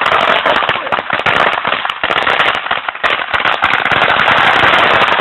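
A string of firecrackers going off in a rapid, continuous run of loud cracks with no gaps.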